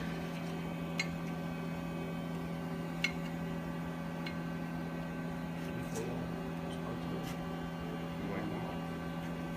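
Steady electrical hum in a small room, with a few faint, sharp clicks of hardware being handled during assembly.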